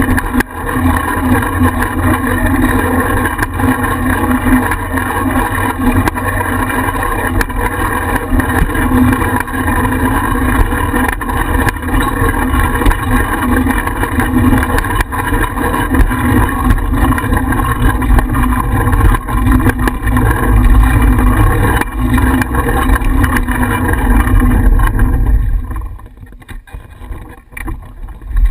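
Wind buffeting and road rumble on a bicycle-mounted GoPro while riding, dropping away briefly near the end.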